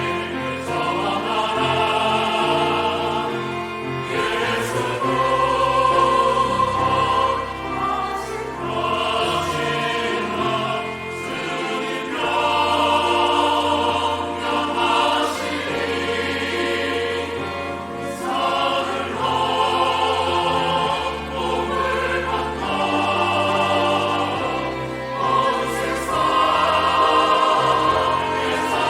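Church choir singing a sacred anthem in parts, with piano and organ accompaniment.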